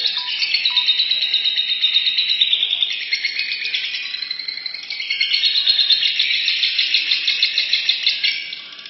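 Lovebirds chattering in long, fast, unbroken strings of high calls, easing off a little partway through before picking up again and fading near the end.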